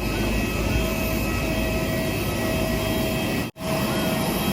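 Steady aircraft noise from a jet airliner at the gate: a continuous rush with a few steady high-pitched tones over it, broken off briefly by a cut about three and a half seconds in.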